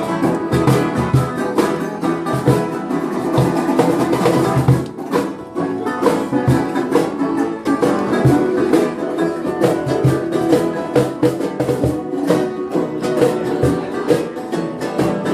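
Live jam-session music: strummed and plucked string instruments over a steady beat, dipping briefly about five seconds in.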